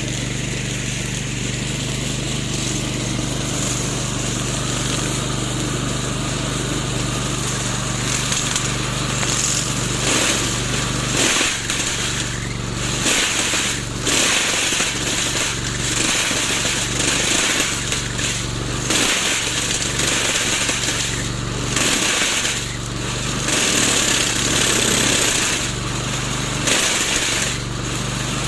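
Remote-controlled lawn mower running steadily, its blade cutting into a tree trunk in irregular, harsher, louder bursts from about ten seconds in.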